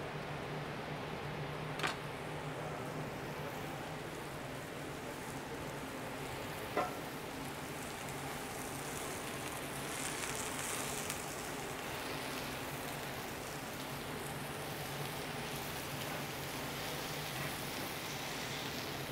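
Mushrooms sizzling in hot cast iron pans on a gas range, a steady frying hiss over a low hum. Two sharp knocks sound, about two and seven seconds in, and the hiss grows brighter for about a second around ten seconds in.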